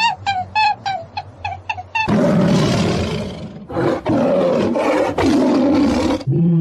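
Short, pitched bird calls repeated about four times a second, then from about two seconds in a large animal's loud, rough roars, about four in a row, each roughly a second long.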